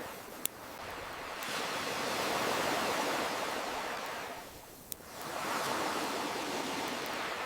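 Ocean waves washing in and receding in slow surges, two swells in turn. Two sharp single pops from a crackling campfire cut through, about half a second and about five seconds in.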